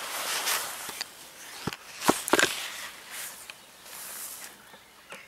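A few footsteps or sharp knocks over outdoor rustling and wind noise, the clearest clicks in a cluster a little before the middle.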